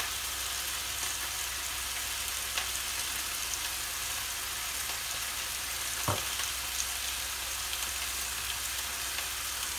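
Chicken strips frying in vegetable oil in a pan: a steady sizzle. A silicone spatula scraping sauce from a bowl gives a couple of light taps, the clearer one about six seconds in.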